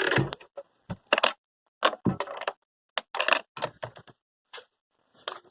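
Irregular series of about ten sharp knocks and clatters, some in quick pairs, from things being handled and moved about.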